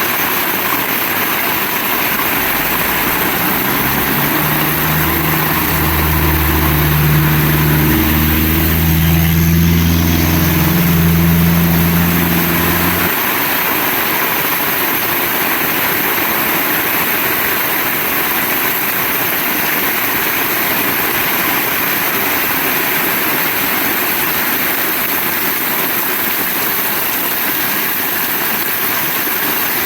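Heavy rain falling steadily. For about ten seconds in the first half, a low engine hum sounds under it and then stops abruptly.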